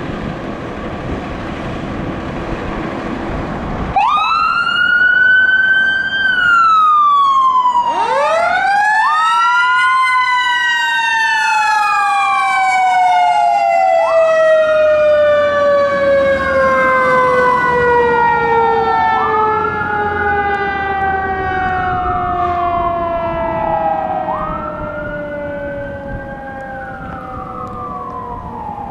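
Sirens wailing. The first siren starts about four seconds in with a rising then falling wail. A second comes in about four seconds later and slowly winds down in pitch, while the wail keeps rising and falling about every five seconds.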